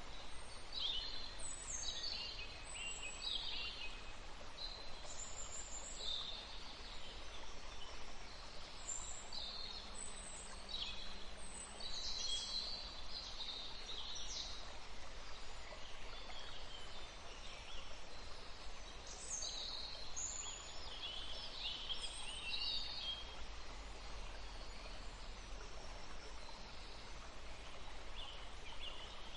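Forest birds, several songbirds, calling in short high chirps and phrases over a steady soft background hiss. The calls are thickest in the first half and thin out over the last few seconds.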